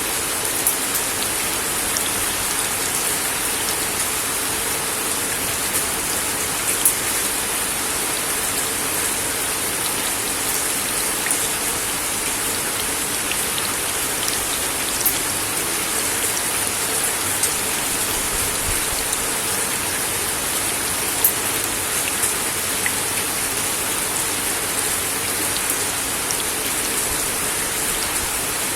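Steady rain falling on a wooden deck: an even hiss with scattered sharper drop ticks, a few louder ones about 7 and 21 seconds in.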